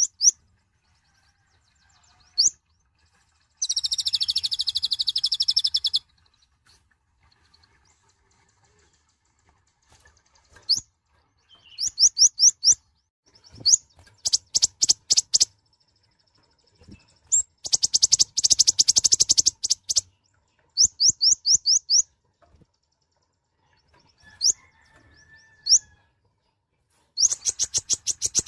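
Kolibri ninja (konin), a small sunbird, singing: bursts of rapid, very high-pitched trills and quick repeated chirps, some harsh and buzzy, separated by short pauses.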